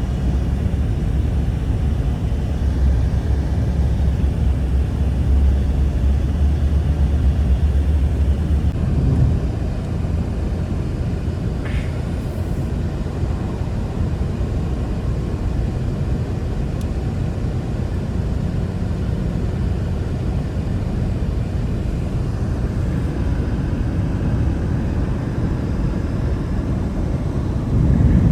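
Strong blizzard wind rushing with a heavy low rumble, heaviest for the first nine seconds or so and then slightly easing.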